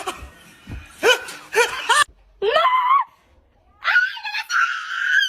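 A person screaming in short, high-pitched shrieks with brief pauses between them, then a long held scream near the end.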